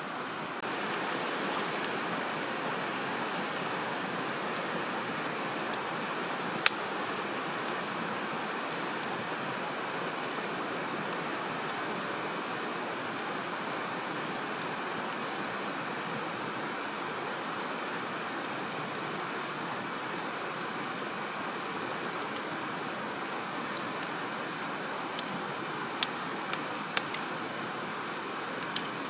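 Wood campfire burning: a steady hiss of flames with scattered sharp crackles and pops, the loudest about six and a half seconds in and several more near the end.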